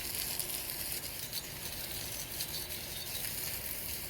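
Water from a garden hose running steadily into a pool, a continuous splashing hiss.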